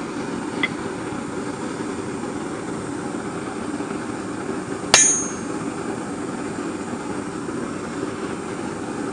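Forge running with a steady rushing noise while a steel bar heats in it. About five seconds in comes a single sharp metallic clink of steel on steel that rings briefly, with a small tap just under a second in.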